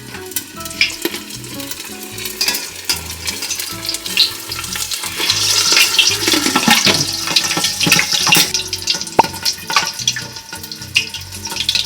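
A pork leg deep-frying in hot oil: a steady sizzle with many sharp pops and crackles of spattering oil, growing louder and busier about halfway through.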